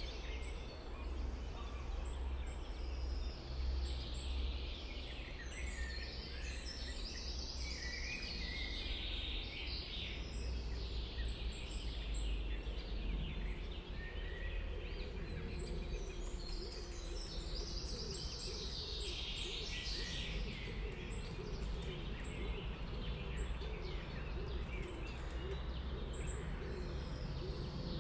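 Several songbirds singing in overlapping phrases, over a steady low background rumble.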